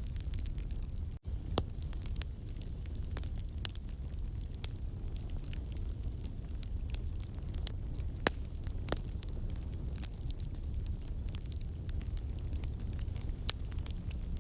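Wood fire crackling in a fireplace: a steady low rumble and hiss with scattered sharp pops. The sound cuts out for an instant about a second in.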